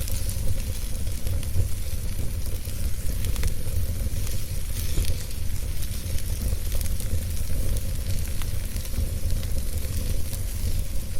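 Wood fire burning in a fireplace: a steady low rumble of flames with a hiss and frequent small, irregular crackles and pops.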